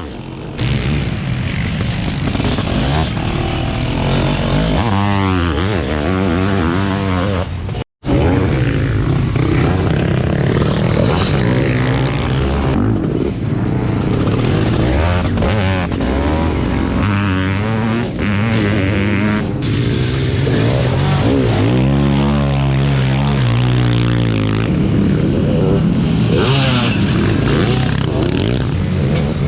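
700cc two-stroke Zabel sidecar-motocross engines revving hard, the engine note climbing and falling again and again as the outfits accelerate and pass. About eight seconds in, the sound cuts out for an instant.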